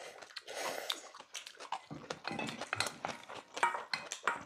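People chewing mouthfuls of bibimbap close to clip-on microphones, with scattered small clicks, including chopsticks and spoons on stainless steel bowls.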